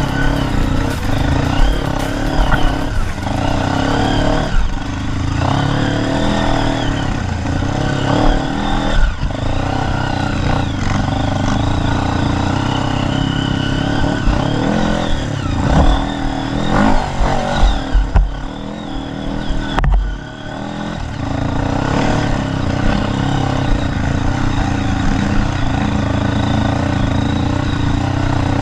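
Dirt bike engine running and revving, its pitch rising and falling with the throttle. It drops off briefly about two-thirds of the way through, then picks back up.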